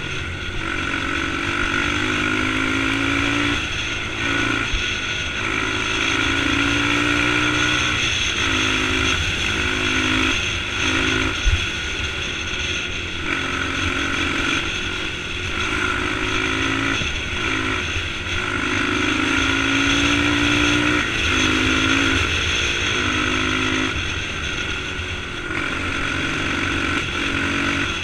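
Dirt bike engine running under way, its pitch rising and breaking off again every second or two as the throttle opens and closes, over a steady rushing noise. One sharp knock comes near the middle.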